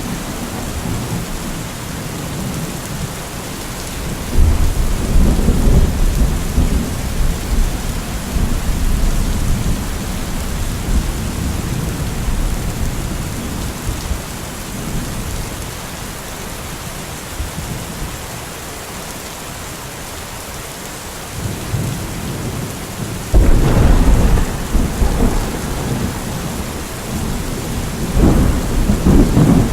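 Steady rain with rolling thunder: deep rumbles swell about four seconds in, again near twenty-three seconds and once more near the end.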